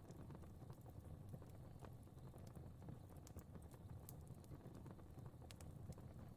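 Faint crackling fire: a low, steady rumble of flames with irregular sharp crackles and pops scattered throughout.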